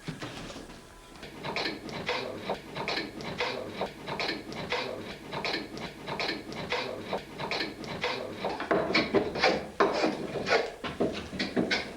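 A hand tool working wood in quick, repeated strokes, about three a second, growing louder in the last few seconds.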